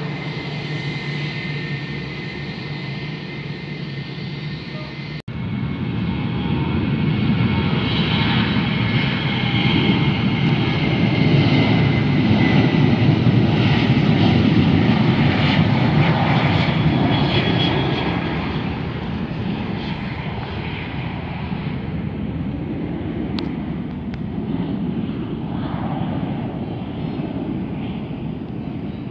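Jet airliner engines. A steady whine is followed by a cut about five seconds in, then a loud rumble that builds to a peak midway and fades away as the aircraft passes.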